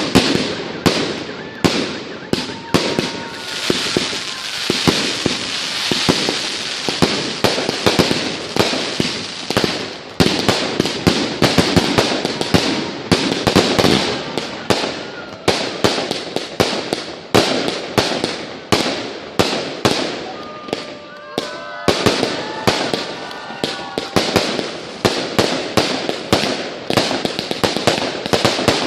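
Fireworks display: a rapid, near-continuous barrage of shells bursting, with crackling filling the gaps between the bangs.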